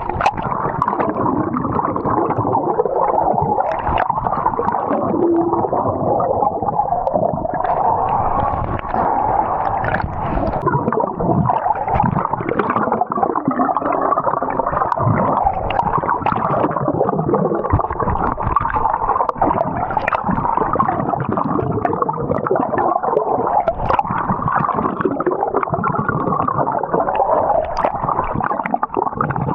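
Water gurgling and sloshing close to the microphone, a continuous muffled churning with no clear pitch.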